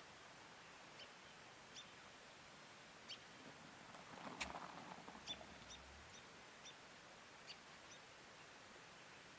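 Near-quiet woods with a dozen or so short, high chip notes from a small bird scattered through. About four and a half seconds in there is a sharp click followed by a brief rustle.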